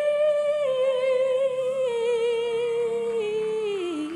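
A female solo singer holds one long sung note with vibrato. The note steps slowly lower and drops near the end.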